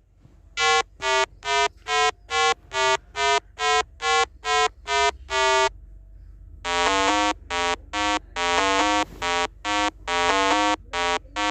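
Electronic beeping tones standing in for a coyote's call: about a dozen short beeps at one pitch, about two a second, then a run of longer, lower buzzing tones.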